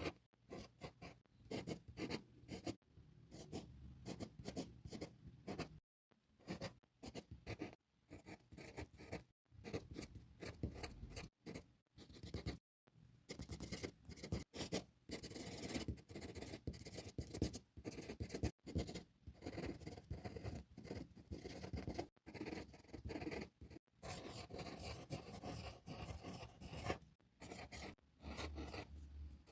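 A drawing tool scratching across paper in quick, repeated strokes, broken by short pauses where it lifts off.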